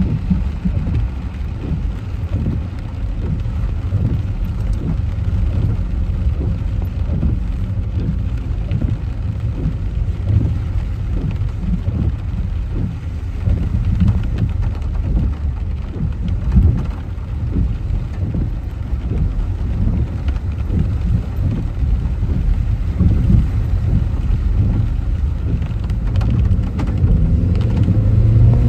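Heavy rain falling on a moving car, with many small irregular splashes over a steady low rumble from the car and its tyres on the wet road.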